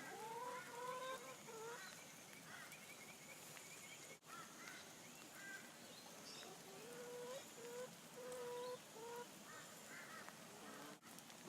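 Faint, repeated honking animal calls: a short run at the start, then a string of short, flat calls in the middle.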